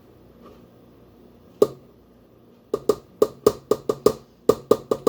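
Hard kitchen utensil knocked against the rim of a mixing bowl, likely to shake powdered sugar loose: one knock, then a quick run of even taps at about four a second, each ringing at the same pitch.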